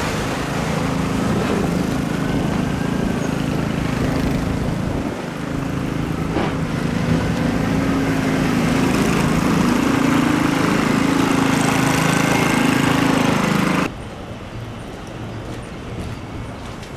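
A nearby motor vehicle's engine running loud with a wavering pitch, and a siren wailing faintly underneath. Both cut off abruptly about fourteen seconds in, leaving quieter street and wind noise.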